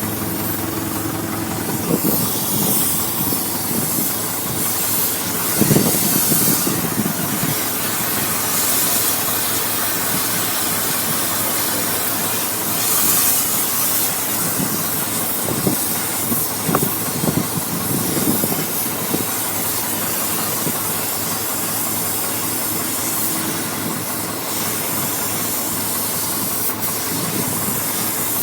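Oxy-acetylene cutting torch hissing steadily, with a few louder irregular bursts of crackle, over an engine idling underneath.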